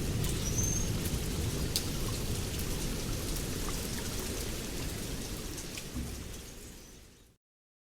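Heavy rain falling with many small drop ticks over a low rumble of thunder, fading away and going silent near the end.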